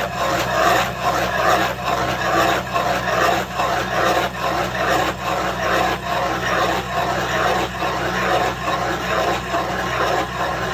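Skid-steer stump planer attachment grinding into a tree stump: a rasping shred of wood that pulses about twice a second over the machine's steady low drone.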